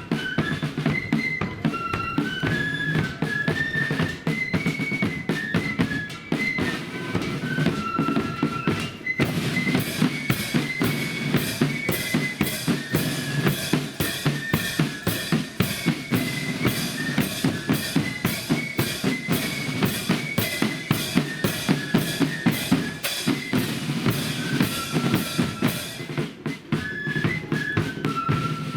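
Marching flute band playing a march: a shrill flute melody over snare drums and a bass drum. About a third of the way in the snare drumming grows louder and sharper, then eases back near the end.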